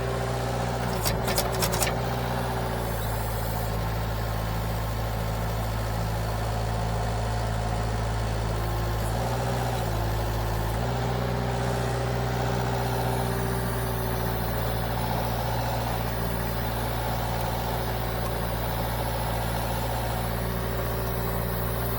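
Engine running steadily at raised throttle to give more hydraulic power for lifting a heavy oak log. A few sharp clicks sound about one to two seconds in, and the engine note dips briefly around ten seconds.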